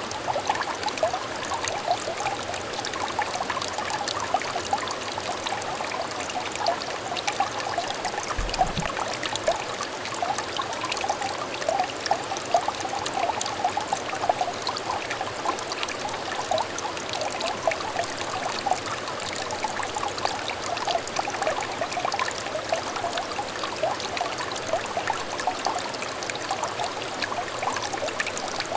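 Small, shallow stream trickling steadily, a continuous run of little bubbling, plinking water notes.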